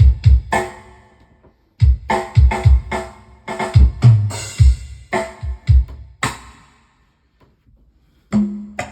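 Sampled drum kit sounds played from the keys of a Medeli AKX10 keyboard: single drum hits with deep kick thumps, struck in irregular clusters with short pauses between. Near the end a drum hit with a held, ringing pitch.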